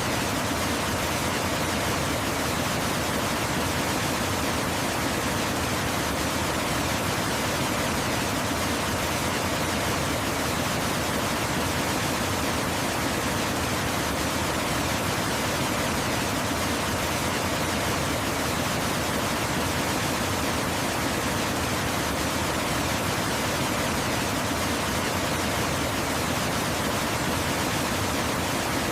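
Waterfall rushing steadily: an even, unchanging hiss spread from deep to high pitches, with no splashes or breaks.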